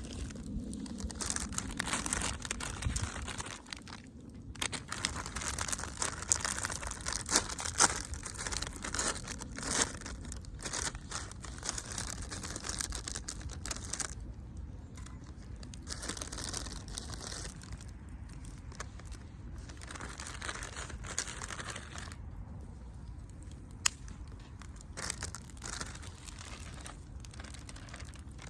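Wood fire crackling and popping in a campfire stand: dense clusters of sharp crackles with quieter gaps between them.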